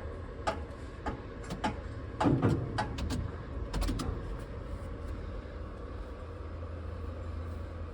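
Handling noises in a tower crane cab: a run of clicks and knocks over the first four seconds, as the operator settles into the seat, over a steady low rumble.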